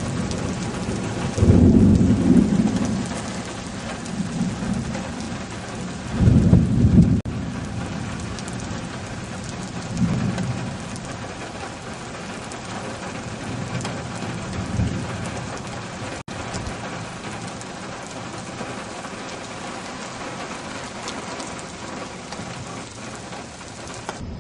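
Steady heavy rain, with deep low rumbles swelling up several times: the loudest about a second and a half in and again around six seconds, with weaker ones later.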